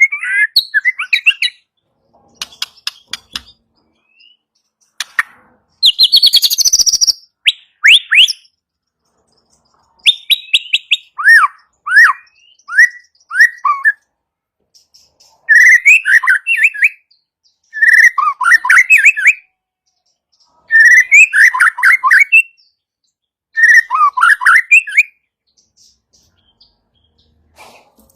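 White-rumped shama (murai batu) singing in short loud phrases of quick whistled and chattering notes, separated by pauses. About six seconds in comes a burst of rapid dry crackling.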